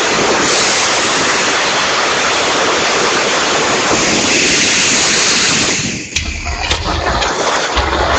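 Typhoon wind and rain on a phone microphone: a loud, steady rush of noise. About six seconds in it drops briefly, then gusts buffet the microphone with low rumbles and a few clicks.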